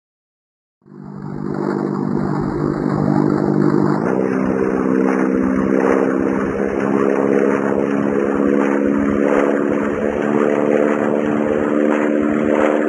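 Airplane engine sound effect: a steady engine drone that starts about a second in and steps up in pitch about four seconds in.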